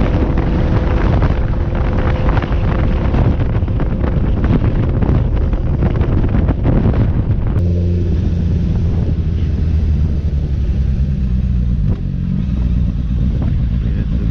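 Motorcycle riding at speed, its engine running under heavy wind rush on the microphone. About seven and a half seconds in, this cuts abruptly to a steady, low engine hum with the wind gone.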